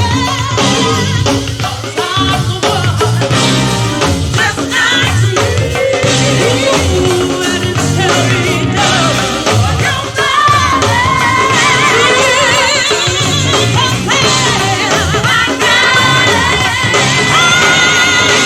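Live go-go band playing over a steady drum beat, with a lead vocal that holds long notes with a wide vibrato in the second half.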